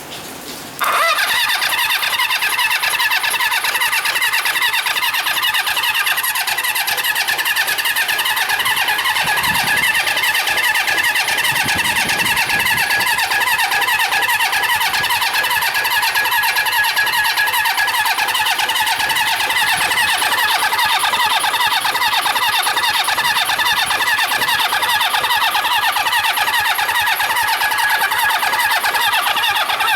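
Honda CB400 Four's electric starter cranking the 408cc inline-four engine steadily without it firing: the bike is a non-runner that turns over on the starter. The cranking starts abruptly about a second in.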